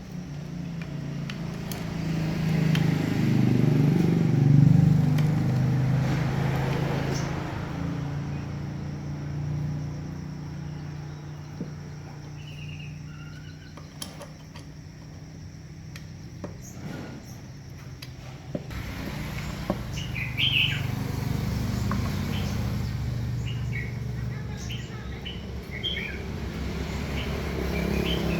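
Birds chirping over a steady low hum that swells loudest a few seconds in.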